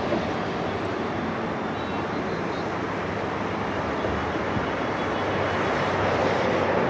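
An express passenger train rushing past on the track, a steady rumble of wheels on rail that grows a little louder near the end.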